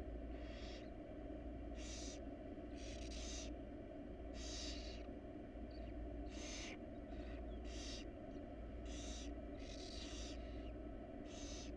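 Barn owl nestlings giving their hissing begging calls, short rasping hisses about once a second from more than one bird, over a steady low hum.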